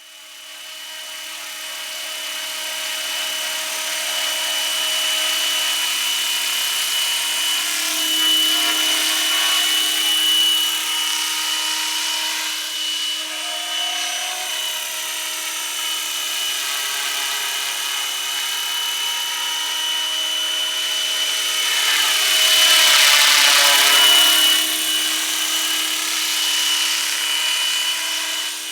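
Large scale RC model MD 500 helicopter flying, its rotors and drive giving a steady whine with a strong high tone. It fades in at the start and swells louder for a couple of seconds near the end.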